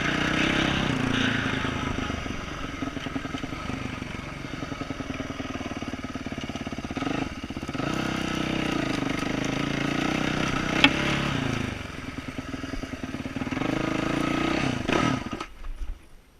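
2012 Yamaha YZ450F's four-stroke single-cylinder engine with an aftermarket exhaust, running under throttle that rises and falls as the bike rides. There is a single sharp knock about eleven seconds in. The engine cuts off suddenly about a second before the end.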